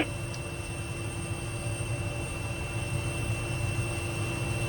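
Steady drone of a parked airliner's engines idling, a low rumble with a thin steady whine over it.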